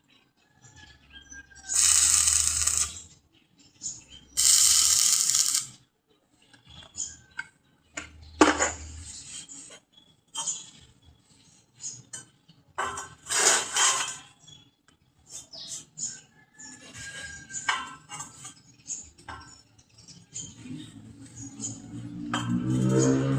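Metal clinking and scraping during sheet-metal work, with a couple of harsh one-second bursts of noise, scattered knocks and clicks, and a low pitched hum coming in near the end.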